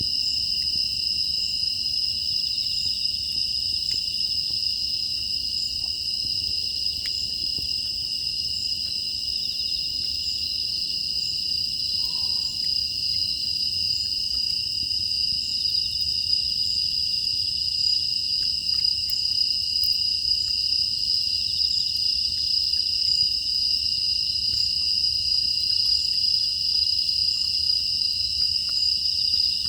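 Steady, unbroken chorus of field crickets trilling at two high pitches, with faint scattered crackles.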